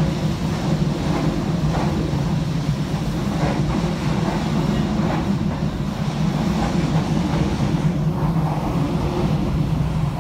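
Passenger train coach running along the track at speed: a steady low rumble of wheels on rails, with faint clicks every second or two.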